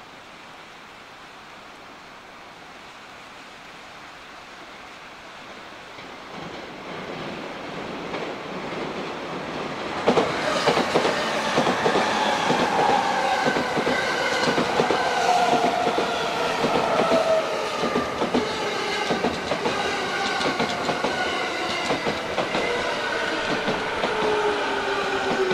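JR East E217-series electric train pulling in: it grows louder from about six seconds in. From about ten seconds its wheels clatter over rail joints while several whining tones fall steadily in pitch as the train slows.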